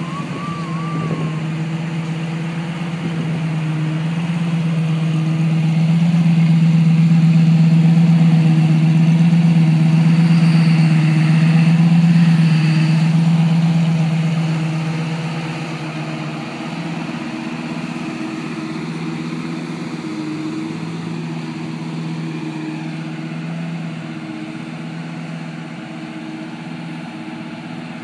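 Lamborghini Gallardo Superleggera's V10 engine idling steadily at an even pitch, with no revving. It is louder for several seconds in the middle, close to the tailpipes, then eases off.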